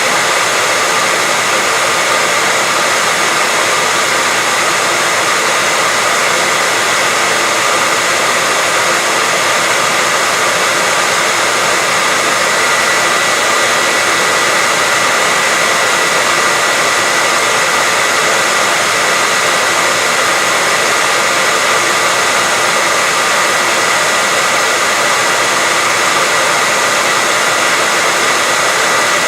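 Steady white-noise track: a constant, unbroken hiss, stronger in the higher pitches than the low ones, with a faint steady whine running through it.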